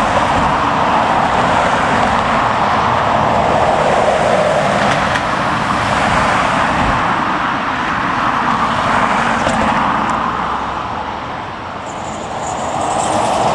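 Jet airliner engine noise, a steady rushing roar that dips briefly near the end and swells again.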